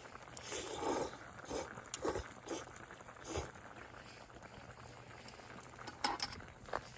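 A pot of hotpot soup bubbling, with irregular plops in the first half and again near the end, and a few sharp clicks.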